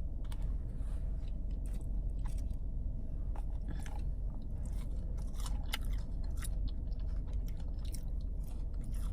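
A person chewing food close to the microphone, with many irregular wet smacks and clicks of the mouth. A steady low hum from the car runs underneath.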